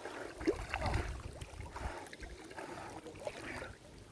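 Water sloshing and splashing, with a low rumble through the first second and a half.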